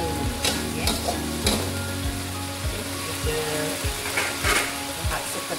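Fermented shrimp and onions sizzling as they fry in an aluminium wok, with a few scrapes of a metal spatula against the pan, mostly in the first second or two and once more later on.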